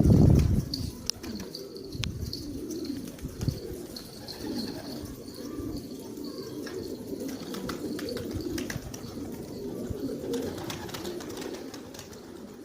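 Domestic pigeons cooing continuously, several low warbling coos overlapping, with a brief loud low burst right at the start and faint high chirps and small clicks in the background.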